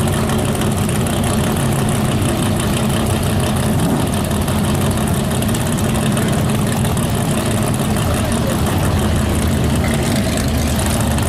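Car engine idling, a steady low-pitched run with no revving.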